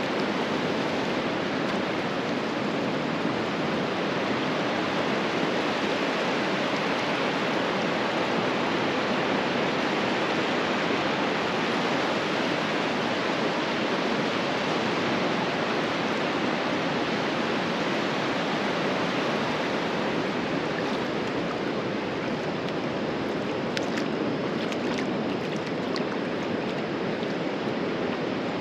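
Ocean surf: a steady, continuous wash of breaking waves on the beach, with a few faint ticks near the end.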